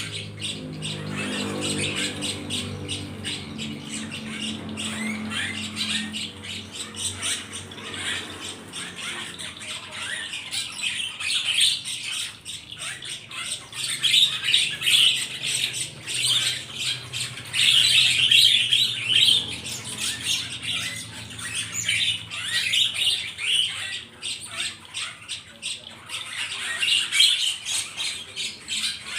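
Many small birds squawking and chirping together, a dense run of short, harsh calls that swells in bursts several times.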